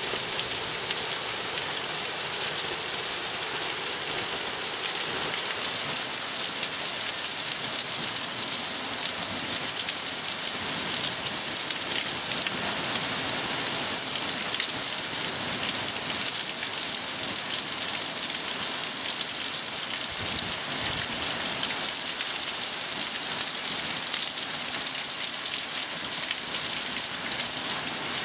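Heavy thunderstorm rain pouring down steadily, a dense, even hiss of rain on the ground, roofs and parked cars.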